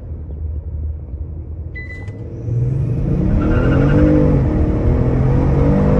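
Kia Stinger engine held at launch revs, then pulling hard from about two and a half seconds in as the car launches from a stop, the pitch climbing, dropping at an upshift and climbing again, heard from inside the cabin. A little tyre skip can be heard at the launch.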